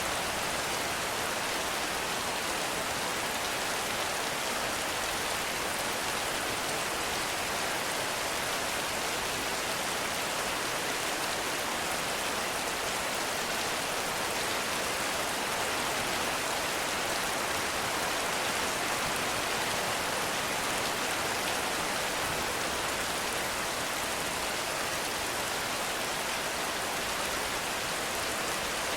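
Heavy rain falling steadily in a forest, a dense even hiss of drops with no single drop or thunder standing out.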